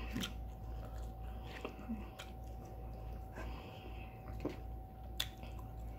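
A person chewing and biting a mouthful of teriyaki chicken and noodles, with a few sharp clicks from a plastic fork in a foam takeout container. A faint steady hum runs underneath.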